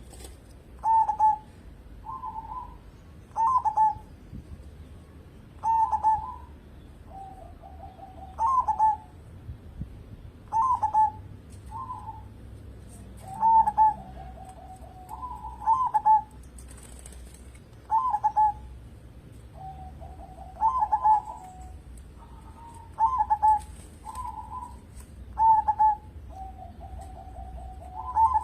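Zebra dove (perkutut) cooing its song: short bright coo phrases repeated about every two to three seconds, with a lower rolling trill every few phrases.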